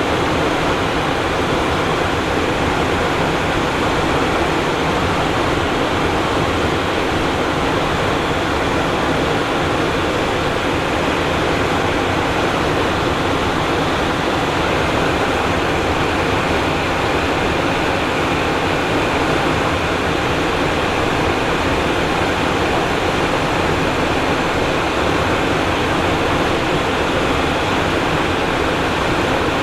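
Steady cockpit noise of a Cessna Citation Encore jet in flight: an even rush of airflow and engine hum with no changes.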